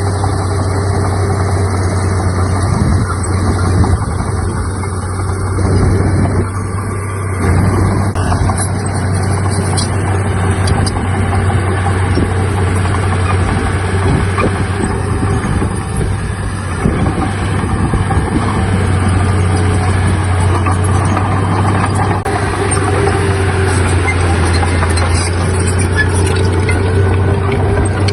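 Heavy diesel earthmoving machinery running steadily at a constant engine pitch, with occasional short knocks and clanks.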